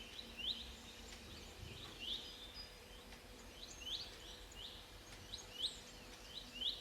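Small bird chirping again and again: short, quickly rising chirps, about two a second, over a faint steady hum.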